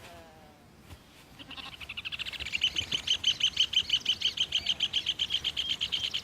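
Rufous hornero (red ovenbird) calling in excitement: a fast, even run of sharp, high notes at about eight a second. It starts about a second and a half in and grows louder.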